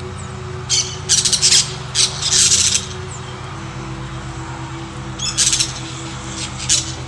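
Parrots squawking: harsh, screechy calls in short bursts, a cluster of them in the first three seconds, then again about five and a half seconds in and near the end.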